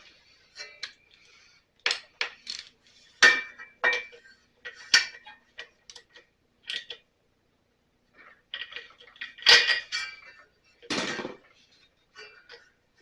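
Metal tools clinking and clattering against metal, a dozen or so separate knocks at uneven spacing, with a longer scraping clatter near the end.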